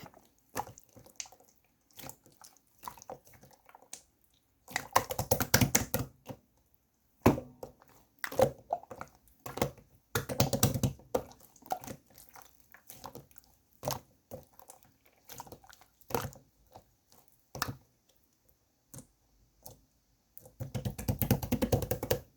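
Close clicking and crackling in three dense bursts lasting a second or two each, with scattered single clicks and taps in between.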